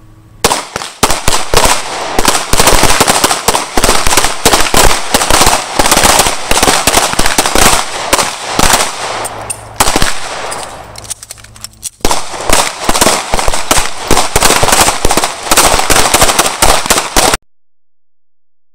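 Several handguns firing rapidly on a range, the shots overlapping into a continuous volley. The firing thins out about ten seconds in, picks up again a couple of seconds later, and cuts off abruptly near the end.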